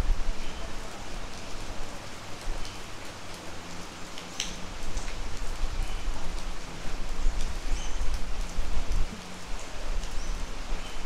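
Steady rain falling, with a few sharp drips landing close by, the clearest about four seconds in.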